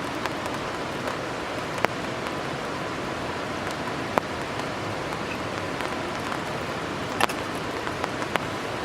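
Steady rain falling, an even hiss with a handful of sharper, louder drops striking close by at irregular moments.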